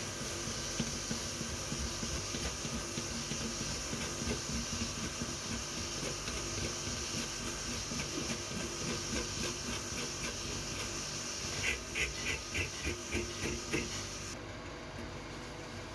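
A steady hiss of escaping compressed air that cuts off sharply near the end. Over it run uneven repeated strokes, ending in a quicker run of about six, roughly three a second, just before the hiss stops.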